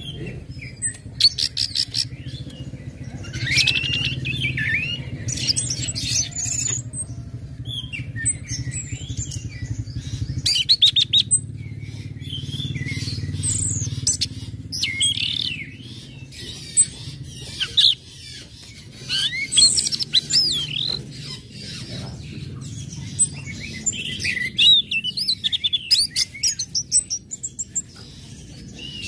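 Orange-headed thrush singing a varied song: quick chattering runs of clicks alternating with whistled, sliding notes, with short pauses between phrases. A steady low hum sits underneath.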